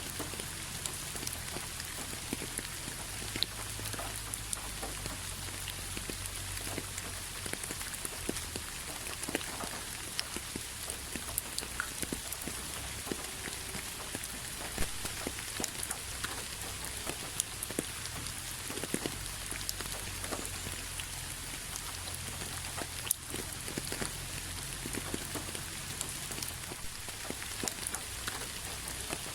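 Steady rain, an even hiss with many separate drops pattering close by.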